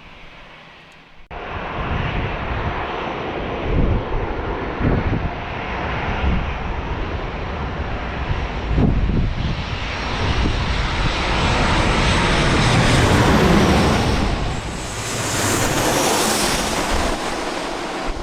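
Jet airliner engines passing close on landing. The noise starts suddenly about a second in, builds to its loudest about two-thirds of the way through, and then leaves a high whine.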